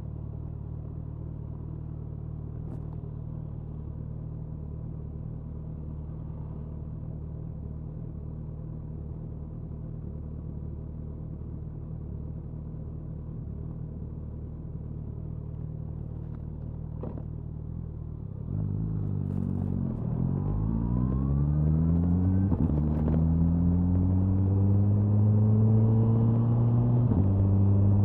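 Suzuki Hayabusa's inline-four engine and exhaust, heard from near the tail, running steadily at low revs. About two-thirds of the way in it begins accelerating, the revs rising and dropping back at each of about three upshifts as it gets louder.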